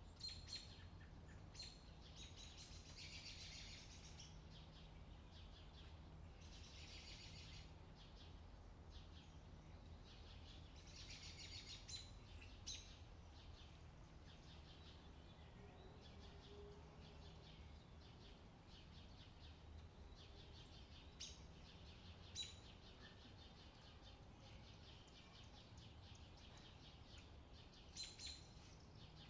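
Wild birds singing faintly in the open: several trilling songs of a second or two each in the first half, and short sharp chirps scattered throughout, over a steady low rumble.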